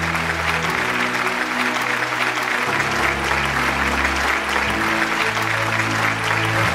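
Applause over background music, with sustained low chords that shift about every two seconds.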